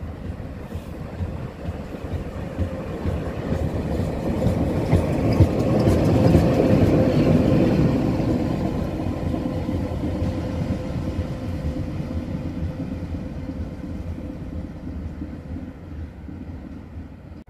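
A train passing by, its rumble growing louder to a peak about six or seven seconds in, then slowly fading away.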